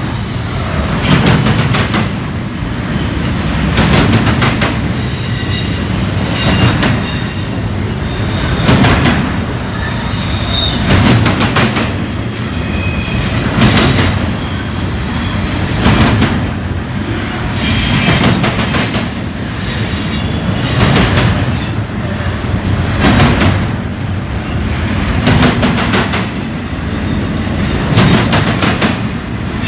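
Double-stack intermodal train's well cars rolling past close by: a steady low rumble, with a loud clatter of wheels about every two and a half seconds, and brief high wheel squeals now and then.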